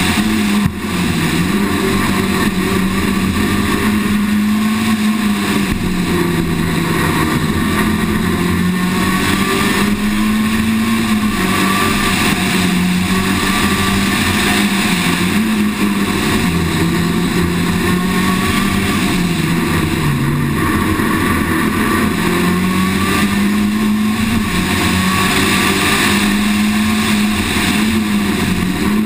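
Citroën Saxo VTS rally car's four-cylinder engine running under load, its pitch rising and falling every few seconds as the car accelerates and slows through a run of bends, over steady road and wind noise.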